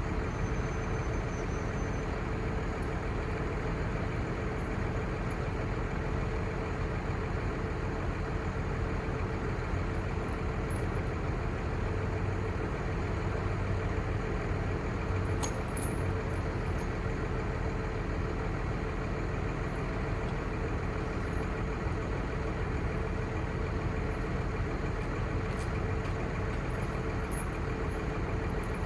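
5.9-litre Cummins six-cylinder turbo diesel of a Ford F800 crane truck idling steadily, with a constant hum above the engine note.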